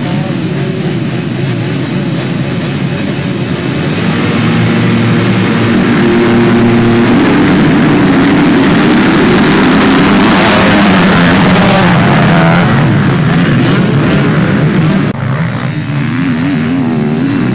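Motocross bikes racing past on the track, their engines revving up and down through the gears; the sound builds over the first few seconds, is loudest about ten to twelve seconds in as a bike passes close, and drops suddenly a few seconds later.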